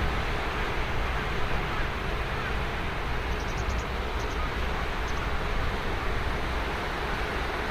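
Ocean surf washing on a sandy beach, a steady rushing noise. About three seconds in, a bird gives a quick run of high chirps, then two more short pairs.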